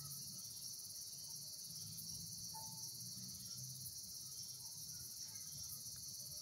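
Steady chorus of night insects, an even high shrill with no break.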